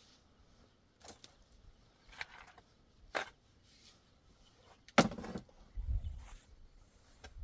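A series of sharp knocks or blows, spaced about a second apart, the loudest about five seconds in, followed by a low rumbling.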